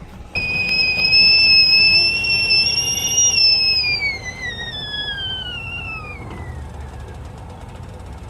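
Whistling kettle sounding a high, steady whistle that starts suddenly, then falls in pitch and fades away over a few seconds as it comes off the boil.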